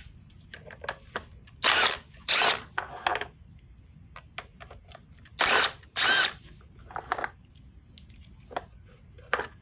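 Handheld power drill-driver run in four short bursts, in two pairs, backing fasteners out of an engine during teardown, with light clicks and clinks of tools and parts between.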